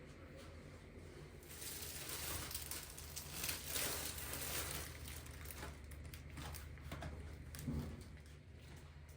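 Rustling and crinkling handling noise, loudest between about one and a half and five seconds in, with a few light knocks.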